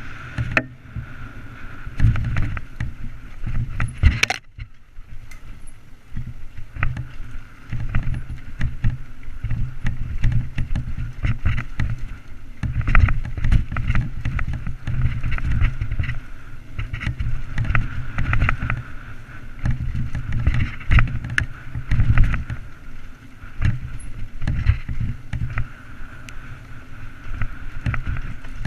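Mountain bike ridden over rough trail, heard through a GoPro Hero3+ housing: continuous rattling and knocking from bumps over a low rumble, with a brief lull about four seconds in.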